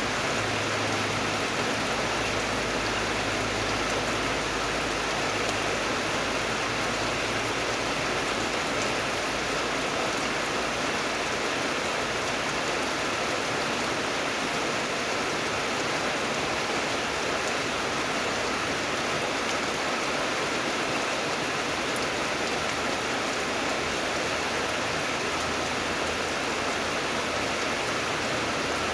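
Steady rain falling, an even hiss of dense raindrops that holds at a constant level.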